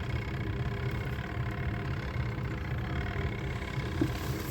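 Washing machine motor running steadily with an even low hum while it washes.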